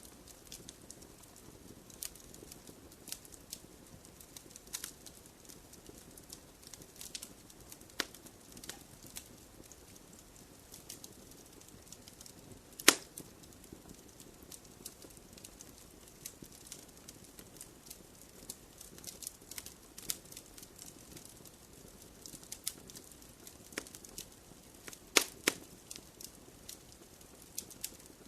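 Wood fire crackling in a fireplace: irregular sharp pops and snaps over a soft low hiss. There is one louder pop about halfway through and a quick run of pops near the end.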